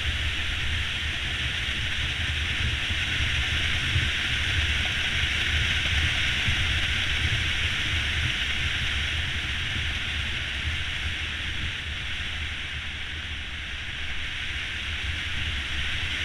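Steady wind rush over the camera with the low drone of a Honda CB500X motorcycle cruising on a paved road.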